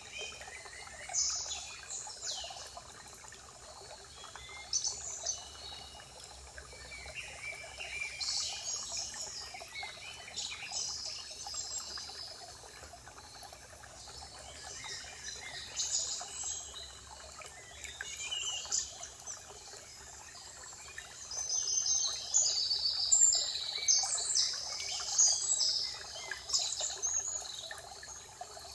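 Several songbirds singing and chirping in short phrases over a steady trickle of running water, the birdsong growing busier and louder about three-quarters of the way through.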